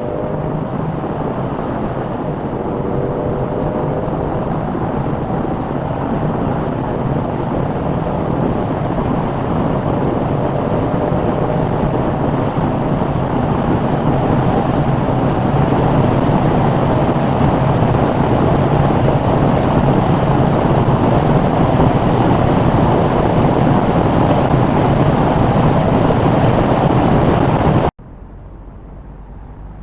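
BMW 6 Series car accelerating hard, engine and road and wind noise building steadily louder over about half a minute, then cut off abruptly near the end.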